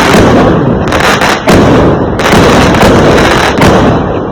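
Dense fireworks barrage: continuous crackling, with sharp loud bangs going off every second or so.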